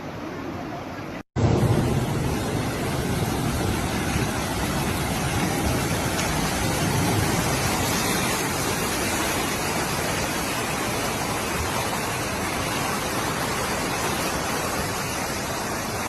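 Fast-flowing floodwater rushing in a steady, even wash of noise. It drops out briefly about a second in, then comes back louder.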